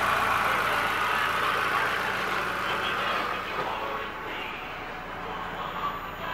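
2004 Mazdaspeed Miata's turbocharged 1.8-litre four-cylinder engine idling steadily with the hood open, the sound dropping somewhat after about three seconds.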